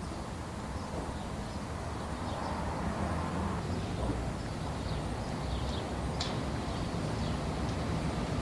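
Steady low hum and hiss of background noise, with a few faint short high chirps.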